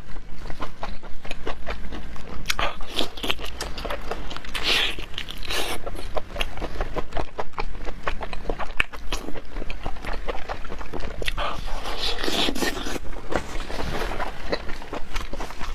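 Close-up eating sounds: biting and chewing food, with many quick irregular clicks and a few louder stretches about five seconds in and again near twelve to fourteen seconds.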